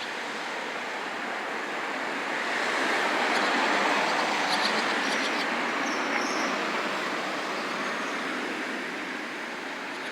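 A vehicle passing on the road: a steady rushing noise that swells to its loudest about four seconds in, then slowly fades.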